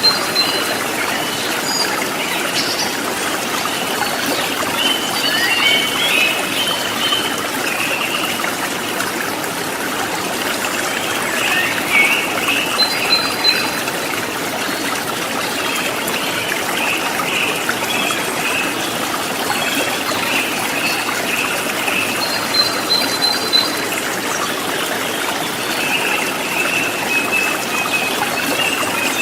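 Shallow river water flowing and splashing over rocks in a steady rush. Short high chirps come and go over it.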